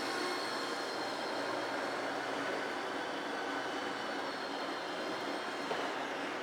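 Steady whine of a small electric RC model aircraft's motor and propeller in flight: faint high tones that drift slightly in pitch over a steady rushing hiss.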